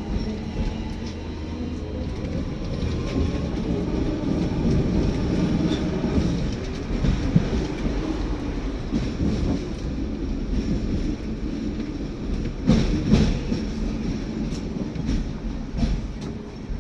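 Hong Kong double-decker tram running along its rails, heard from on board: a steady low rumble, with a few sharp clacks from the wheels about thirteen seconds in.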